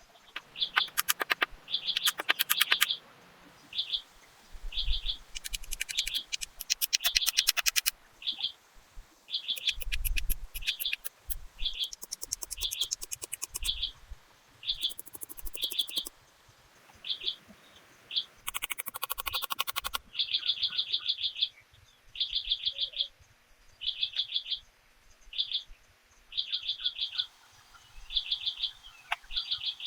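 A bird calling over and over, short high chirping notes about once a second. Several stretches of rapid clicking come in between, and there are a couple of low thuds.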